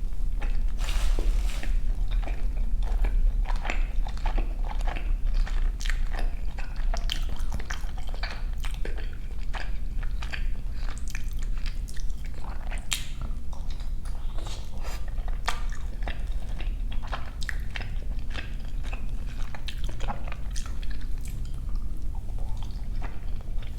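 Close-miked chewing and biting of pork dumplings: a steady run of short mouth clicks and smacks, over a steady low hum.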